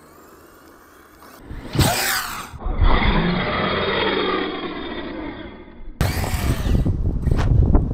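Arrma Mojave 6S BLX RC truck's brushless motor whining under throttle, its pitch falling several times, heard across a few cut-together clips; after the last cut a loud low rumble takes over.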